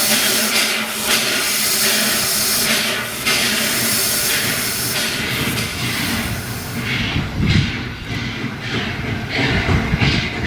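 Steam locomotive hissing loudly with escaping steam, then the hiss drops away about seven seconds in and slow exhaust chuffs, about two a second, come through over a low rumble as it starts to work.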